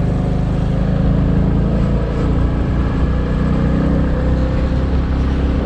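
Motorcycle engine running steadily while riding, with an even rush of noise over it.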